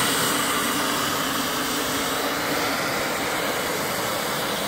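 Steam blower in a boiler's stack hissing steadily, jetting steam at about 20 psi to force a strong draft through the firebox, with the stack removed. The sound is an even, unbroken rush.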